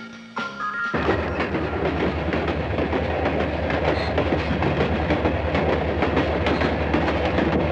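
A diesel-electric freight train running past: a steady low engine drone with wheels clicking and clattering over the rails. It cuts in abruptly about a second in, replacing a snatch of music.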